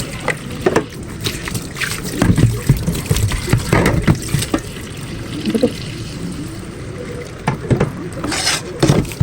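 Water running and trickling, with scattered knocks and clatter of things being handled in it.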